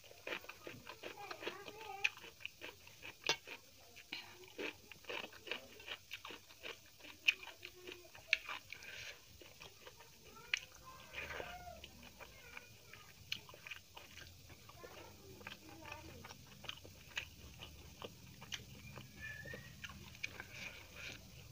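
Close-up, wet chewing and mouth smacking of someone eating dal and rice by hand, a steady stream of irregular short clicks and smacks.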